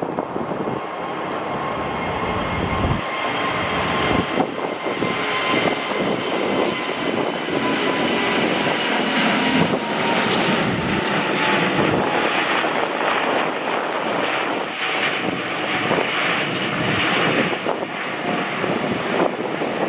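Airliner's engines passing close by: a loud rush of engine noise that builds and holds, with a high whine sliding slowly down in pitch.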